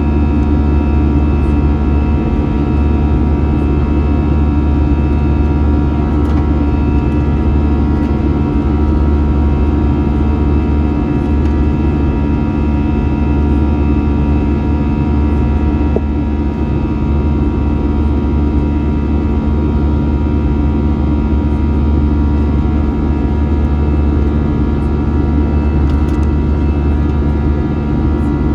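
Airbus A321 jet engines running steadily, heard from inside the passenger cabin: a constant low rumble with several steady whining tones over it.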